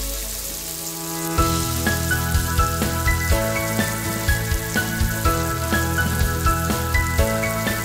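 Shallots, garlic and blended chilli frying in a wok of hot oil, a steady sizzle. Background music with a regular beat over it, coming back in about a second and a half in after a brief lull.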